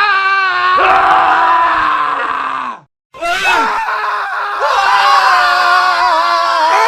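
Men screaming: one scream that slides down in pitch and breaks off nearly three seconds in, then after a brief silent gap more screaming starts and runs on.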